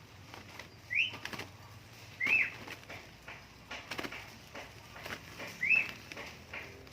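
Sooty-headed bulbuls fluttering and calling: three short chirps that rise and fall, with quick flaps and clicks between them.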